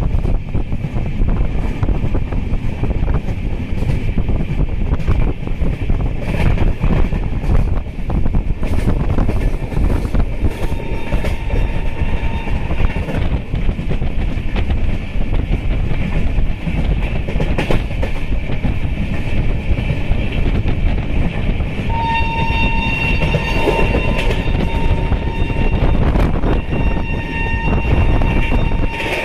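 A passenger train running along the track, heard from inside a coach: a steady loud rumble with repeated clicks of the wheels over rail joints. About three-quarters of the way through, steady high-pitched tones join it.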